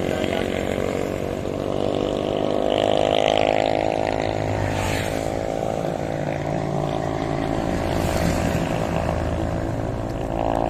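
A motor vehicle's engine running close by, its pitch rising over the first few seconds and then holding steady, over a low rumble of road and wind noise.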